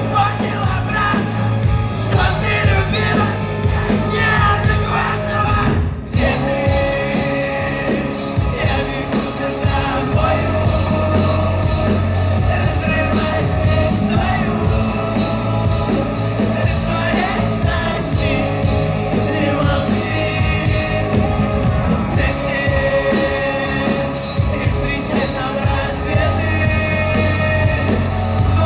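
Live rock band playing with a singer's voice over loud guitars and drums; the sound thins for a moment about six seconds in.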